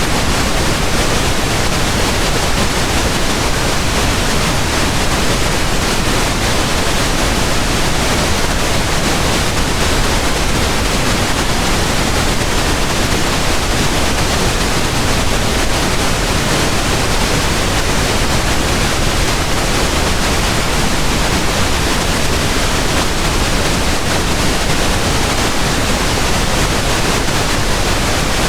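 Pink noise: a steady, even hiss across all pitches, with no changes or events.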